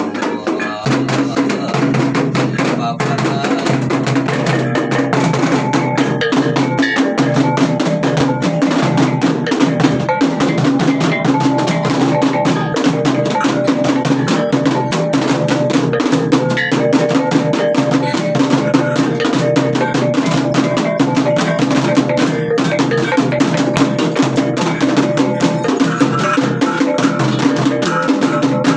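Traditional percussion music: drums beaten in a fast, continuous rhythm with ringing metallic tones sustained beneath the strikes.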